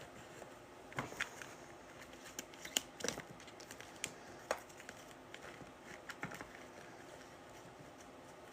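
Scattered light clicks and taps of small objects being handled on a tabletop, irregular and a few a second at most.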